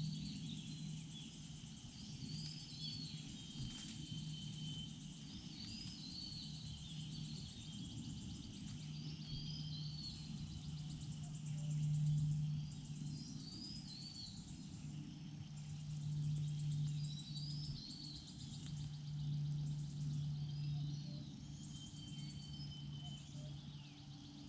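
Forest ambience: a small bird repeats a short, high, curving call every two to three seconds over a steady high insect drone, with a low hum that swells and fades several times.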